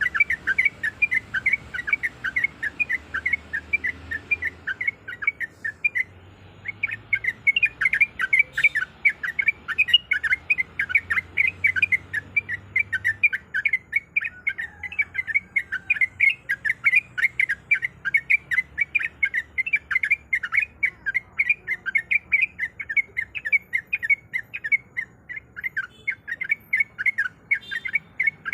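Yellow-vented bulbul (trucuk) chattering: a fast, steady string of short whistled notes, several a second, broken by one brief pause about five seconds in.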